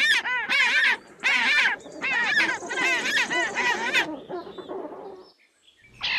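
King penguins giving their trumpeting display calls in a colony: a run of loud, warbling calls with a fast-wavering pitch, dying away after about four seconds.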